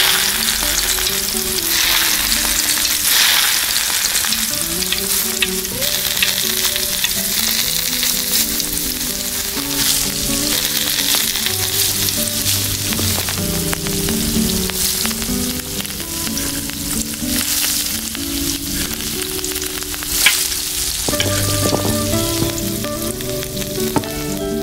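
Food sizzling and frying in a miniature pan, stirred now and then, with a few sharper clicks, the loudest about twenty seconds in. A soft background melody plays underneath.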